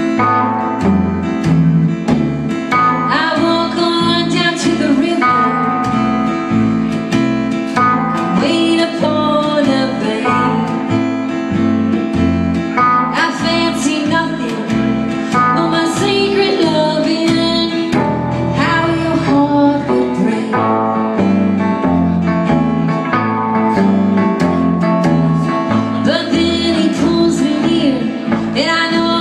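Live country song: a woman singing over a plucked acoustic guitar, with steady low picked bass notes underneath and the vocal coming in phrase by phrase.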